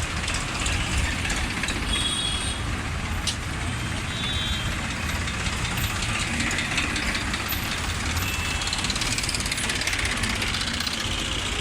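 Tractor engines running steadily, with a few brief high-pitched tones over the rumble.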